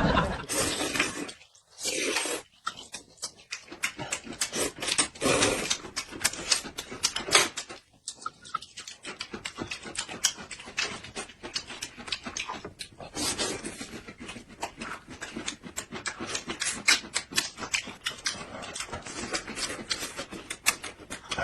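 A person eating noisily in ASMR mukbang style: dense, irregular wet chewing and lip-smacking clicks with breathy swells.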